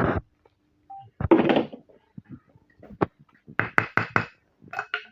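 Bricklaying: a series of sharp knocks and clicks as bricks are set down and tapped into place, with a short scrape about a second in.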